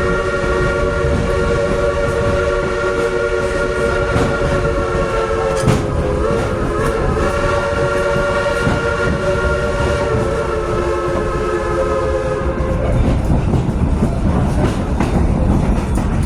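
A locomotive's chime horn sounds one long chord of several notes, wavering briefly about six seconds in and stopping after about twelve and a half seconds. Under it is the steady rumble and clatter of the train rolling on the rails.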